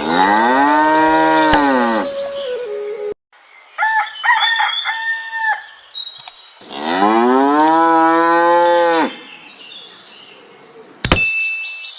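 A cow mooing twice, two long calls that rise and then fall in pitch, with short high-pitched chirping tones in between.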